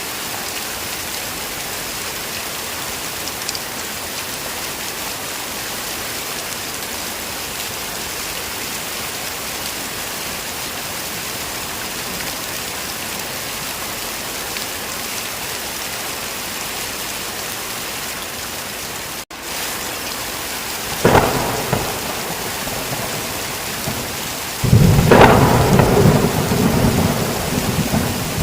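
Heavy rain falling in a steady hiss, with a brief dropout about two-thirds of the way in. Then a sharp crack of thunder, followed a few seconds later by a louder, longer rumble of thunder that runs on under the rain.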